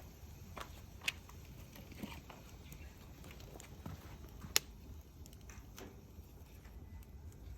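Wood bonfire crackling: irregular sharp pops and snaps, the loudest a little past halfway, over a low steady rumble.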